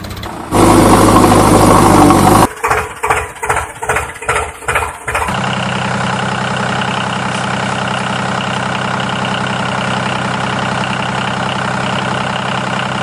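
A large vehicle engine running. Near the start it gets much louder for about two seconds, then pulses in about six surges, roughly two a second, then settles into a steady idle.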